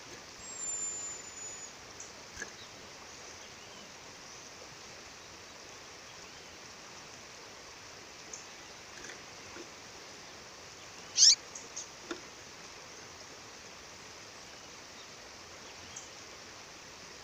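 Steady rush of waterfall water with bird calls over it: a thin high whistle, falling slightly, about half a second in, then one loud, sharp chirp sweeping downward about eleven seconds in, followed by a couple of faint peeps.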